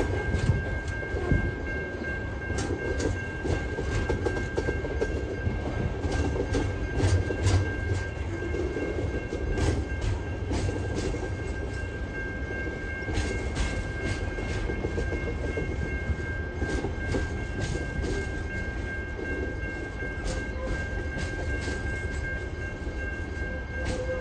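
Freight train's container wagons rolling past: a steady low rumble with irregular clacks of wheels over rail joints, and a steady high ring throughout.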